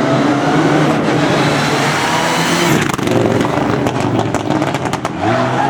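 Rally car engine running hard at high revs, then lifting off about three seconds in with a run of sharp crackles and pops, before the revs climb again near the end.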